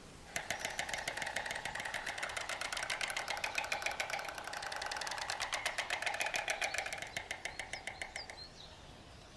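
White storks clattering their bills at the nest during courtship and mating: a rapid, even wooden rattle of many clacks a second, lasting about eight seconds and fading near the end.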